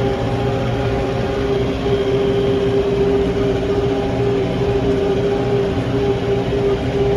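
Farm tractor engine running steadily under load while pulling a field roller, a constant drone with a strong steady whine over a low rumble.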